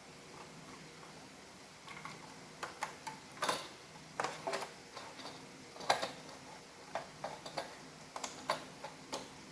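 Irregular clicks and knocks of hard plastic parts from an iRobot Roomba robot vacuum being handled and worked on by hand. They start about two seconds in and come in scattered bunches.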